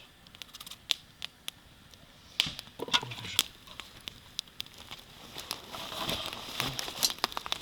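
Campfire crackling, with irregular sharp snaps.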